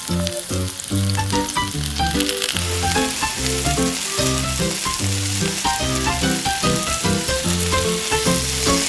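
Hot oil sizzling steadily as flour-coated catfish pieces fry in a miniature pot, the sizzle growing stronger about two seconds in. Background music with a run of plucked-sounding notes plays over it.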